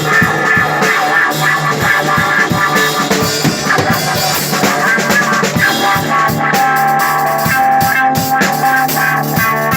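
Rock band playing an instrumental passage: guitar over a drum kit keeping a steady beat.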